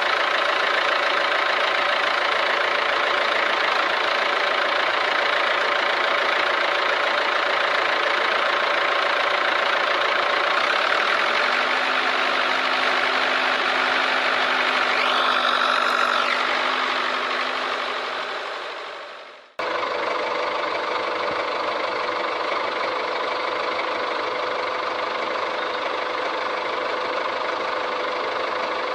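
A small motor running steadily without let-up. It fades away about nineteen seconds in, then starts again abruptly and runs on steadily.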